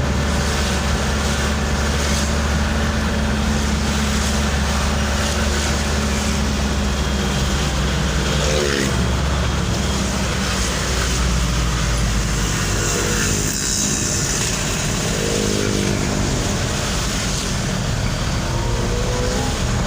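Steady engine hum and road noise of a moving vehicle; the low engine hum eases off about two-thirds of the way through.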